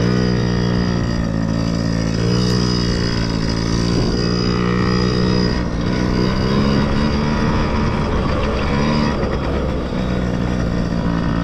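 Small dirt bike engine running under throttle, its pitch stepping up about two seconds in, dropping briefly near six seconds, then rising again and holding steady.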